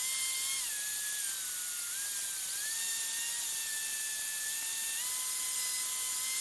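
Cessna 152 engine noise heard through the headset intercom: a steady whine over hiss, cut off in the bass. The whine's pitch dips a little, then steps up twice, following changes in engine speed.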